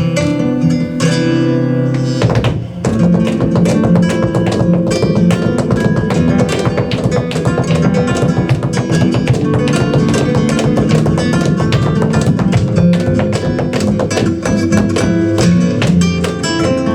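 Flamenco guitar playing a farruca: held chords for about two seconds, then a dense, fast run of sharp percussive strikes over the guitar to the end.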